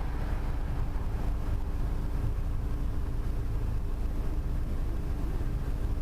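Wind rumbling on the microphone of a bicycle-mounted camera while riding, a steady low noise with a faint steady hum under it.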